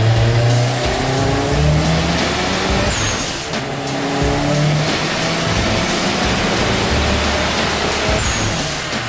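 Turbocharged Subaru WRX flat-four engine running hard on a chassis dynamometer, with the tyres spinning the dyno rollers; it eases off briefly a few seconds in and again near the end.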